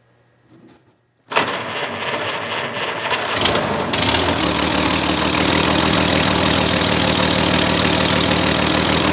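1931 Chevrolet's overhead-valve inline-six is started about a second in, with its valves freshly adjusted and the valve cover off. It cranks briefly, catches, then runs steadily.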